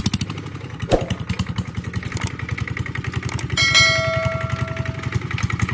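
Kubota ZT150 single-cylinder diesel engine running with a steady, fast chugging beat. Past the middle, a clear ringing tone sounds over the engine for about a second and a half.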